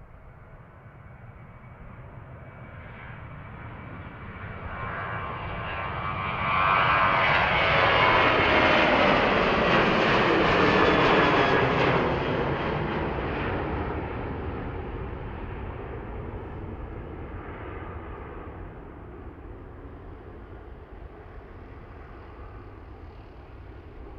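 Boeing 737-800's CFM56-7B turbofan engines at takeoff power as the jet passes by. The sound builds over several seconds and is loudest for about five seconds, with a whine that falls in pitch as the plane goes past, then slowly fades away.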